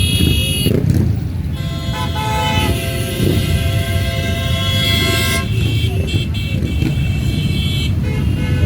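Motorcycles in a parade running past with horns honking: a short blast at the start, one horn held for several seconds from about two seconds in, then more short toots near the end, over the steady low rumble of engines.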